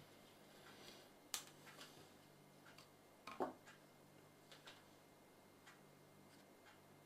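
Near silence with faint, irregular small clicks and taps, the two loudest about one and a half and three and a half seconds in, over a faint steady low hum.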